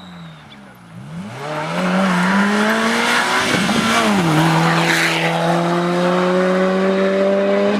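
A rally car's engine approaching and revving hard, growing much louder over the first two seconds. About four seconds in the pitch drops at a gear change, then the engine holds at high revs with the pitch slowly rising.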